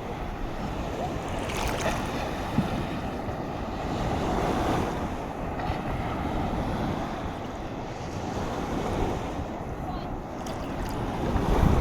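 Sea surf washing in with wind buffeting the microphone, a steady rushing that swells about halfway through and again near the end.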